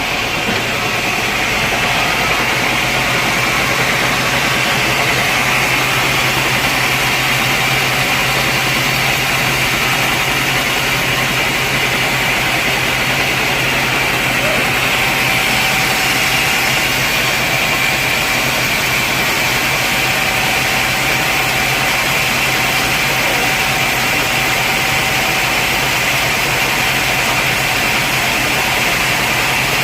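Sawmill saw running steadily: a loud, even machine hum and hiss that doesn't let up.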